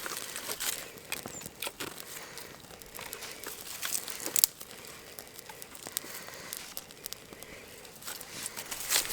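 Small campfire of fat wood shavings and kindling catching, with irregular dry crackles and snaps.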